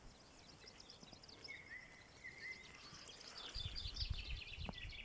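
Faint chirping of small birds, many short high calls, with a brief steady whistled note about a second and a half in. A short low rumble comes near the end.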